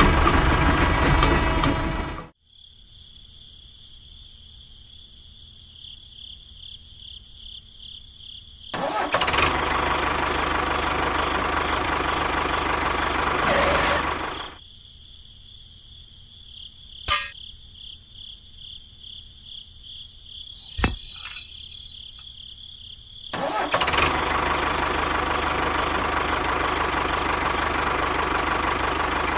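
A small motor runs, stops, starts again and stops, then starts once more near the end. Each run is an even, steady noise, and the pauses carry a quieter high pulsing buzz and a couple of sharp clicks.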